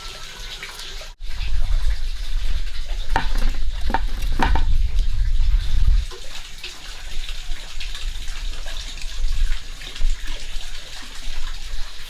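Water running and splashing. The sound changes abruptly about a second in, as at a cut, and is then louder, with a low rumble.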